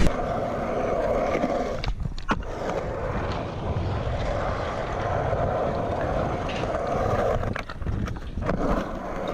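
Skateboard wheels rolling on concrete in a steady rumble, broken by sharp clacks of the board about two seconds in and again near the end, with wind buffeting the microphone.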